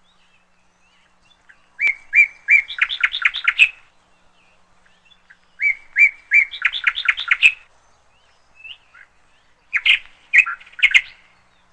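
A songbird singing: two phrases of about two seconds each, each opening with a few evenly spaced repeated notes and breaking into a quick run of notes, then a shorter, broken phrase near the end.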